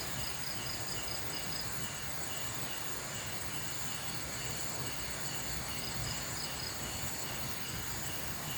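Night insect chorus: steady high-pitched chirring with a rhythmic pulsing chirp repeating a few times a second, over a low steady rumble.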